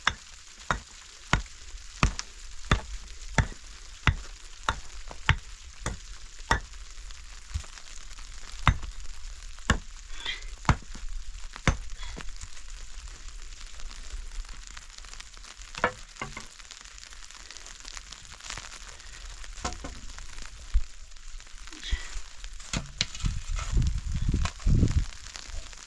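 A regular run of sharp knocks, about one and a half a second for the first seven seconds, then scattered knocks. A cluster of heavier thuds comes near the end, all over a steady hiss.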